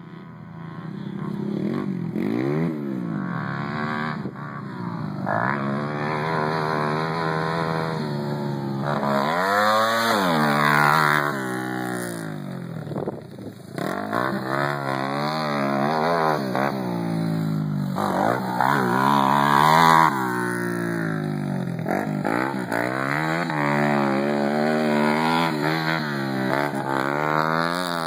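Honda TRX90 quad's 114cc four-stroke single with a Tbolt v2 roller head and custom exhaust pipe, revved up and down over and over as the carburettor jetting is tuned. It reaches its highest revs about ten seconds in and again about twenty seconds in.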